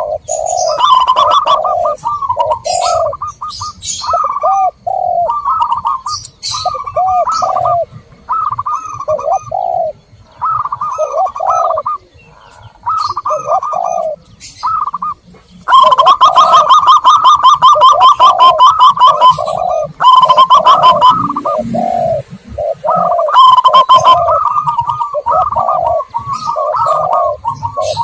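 Zebra doves and spotted doves cooing over one another in a dense run of repeated coo phrases, with short high chirps mixed in. It is a bird-lure recording of doves calling, busiest and loudest about halfway through.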